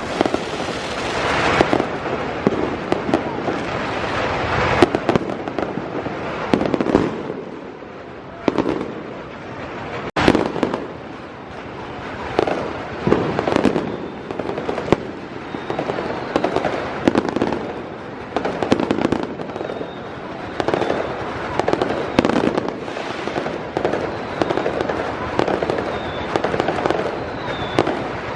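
Fireworks going off without pause: dense crackling and popping, swelling into louder volleys every second or two.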